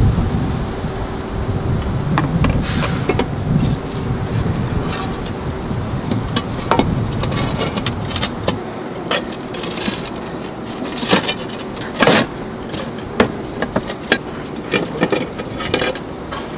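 Roof tiles clinking and knocking against one another as they are handled and set back into place, the knocks coming thickest in the second half. A low rumble runs through the first half.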